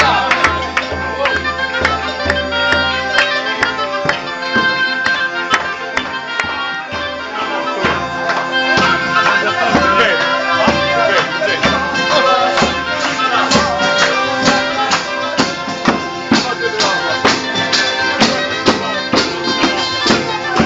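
Southern Italian folk music played live on a bagpipe and a tambourine: steady drone notes under a reedy melody, with the tambourine beating a steady dance rhythm. A low drone note drops out about three seconds in.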